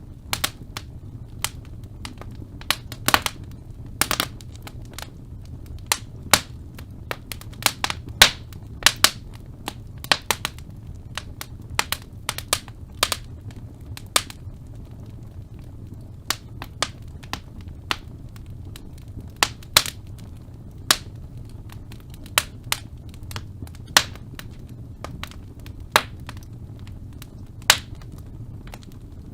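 Wood fire in a fireplace crackling, with irregular sharp pops and snaps, some close together, over a steady low rumble of burning.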